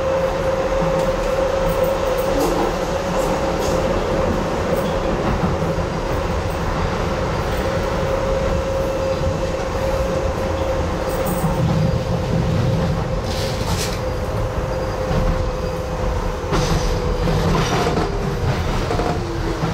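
Docklands Light Railway train running along the track: a continuous rumble of wheels on rail with a steady whine that fades out near the end. A few sharp clicks of the wheels over rail joints come about two-thirds of the way through and again near the end.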